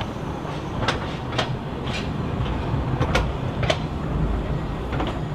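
Narrow-gauge steam train running: a steady low rumble with a string of sharp, irregular clicks and knocks.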